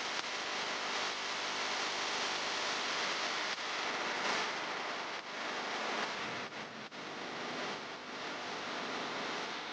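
Steady, even hiss of background noise, with a few brief dips between about five and seven seconds in.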